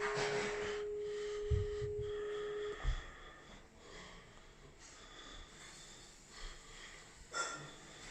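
A steady single-pitch electronic tone that cuts off sharply about three seconds in, with a few soft low knocks beneath it. Faint hiss follows.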